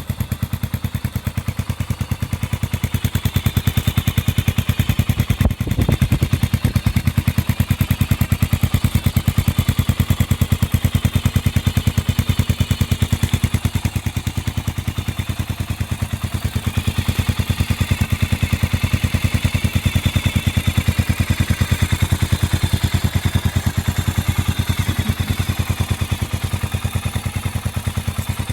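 Honda CB400SS's single-cylinder four-stroke engine idling through a Moriwaki short full exhaust, a steady run of evenly spaced exhaust pulses, with one stronger pulse about six seconds in.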